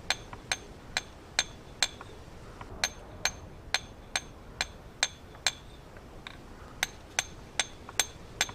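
Stonemason's hand hammer striking stone in a steady rhythm, about two sharp, ringing blows a second with a couple of brief pauses, as stone is broken and shaped by hand.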